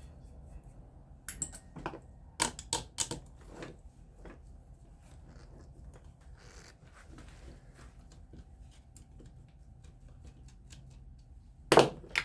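Small metal parts and hand tools clicking and clinking on a workbench during a fan motor teardown. A cluster of sharp clicks comes a second or two in, then one loud clack near the end.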